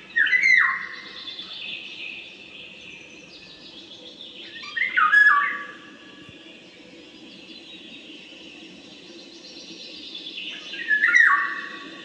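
A bird calling three times, about five seconds apart, each call a short phrase falling in pitch, over a steady fainter background of noise.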